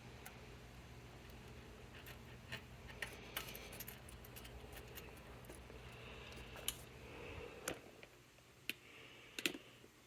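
Scattered light clicks and taps of small metal parts being handled, with a few sharper knocks in the second half, over a faint steady low hum that drops away near the end.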